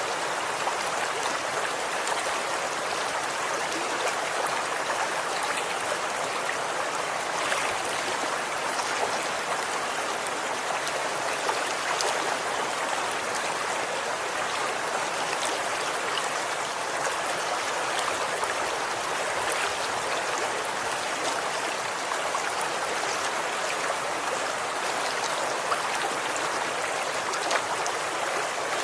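Running water flowing steadily, an even rushing and splashing with small drips and plinks scattered through it.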